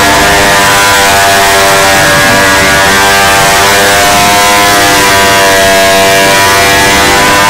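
Motorcycle engines running very loudly at high revs, their pitch drifting gently up and down.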